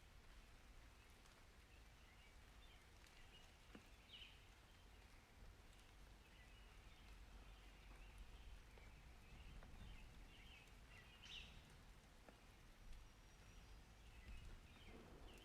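Near silence: faint outdoor ambience with a steady low rumble and a few faint, short bird chirps now and then.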